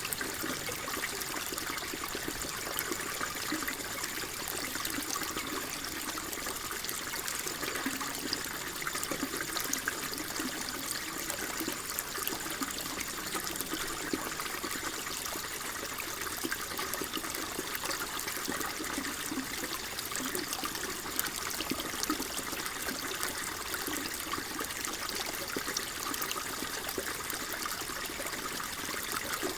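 Water flowing and trickling steadily, a continuous splashing babble with no breaks.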